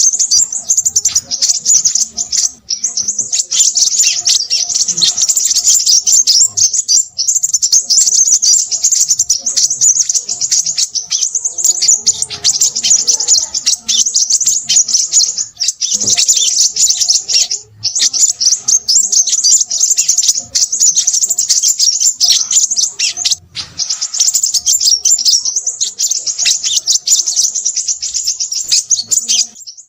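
Crimson sunbird calling noisily: a dense, rapid, high-pitched twittering chatter that runs on for several seconds at a time, broken by brief pauses.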